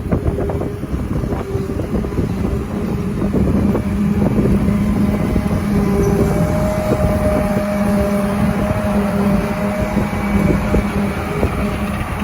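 An engine running with a steady hum over a heavy, continuous rumble.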